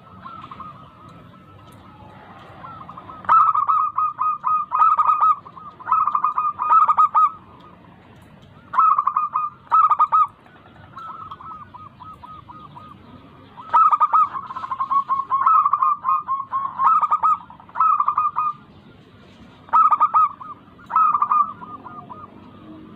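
Zebra dove (perkutut) cooing: quick staccato notes strung into several phrases, each lasting one to four seconds, with short pauses in between.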